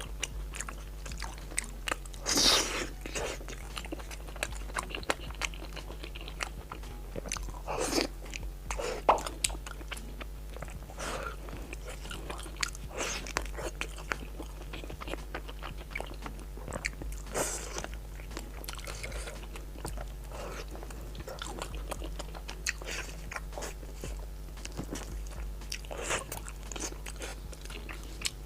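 Close-miked eating: steady chewing and biting with many small wet mouth clicks, and several louder bites, the loudest about two and a half seconds in.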